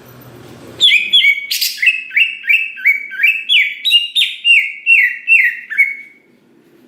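Cucak ijo (green leafbird) singing a fast phrase of about fifteen repeated down-slurred notes, roughly three a second, starting about a second in and stopping near the end.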